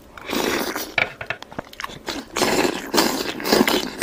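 Close-miked eating sounds: food being chewed, with scattered clicks and two longer noisy stretches, the longer one starting about two seconds in.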